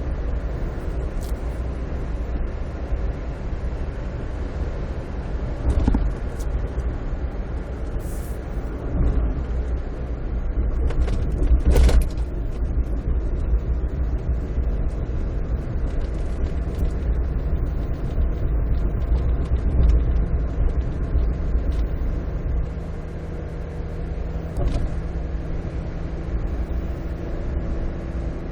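Steady low rumble of a moving car's road and engine noise heard from inside, with a few brief knocks, the loudest about twelve seconds in.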